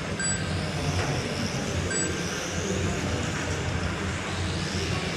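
Electric motors of several radio-controlled Tamiya trucks racing, a whine rising and falling in pitch over a steady hum, with short electronic beeps near the start and about two seconds in.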